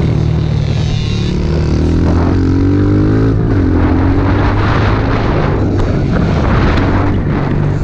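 Small pit bike engine running under throttle, its note climbing about two seconds in and dropping back a second later, with wind and riding noise over it.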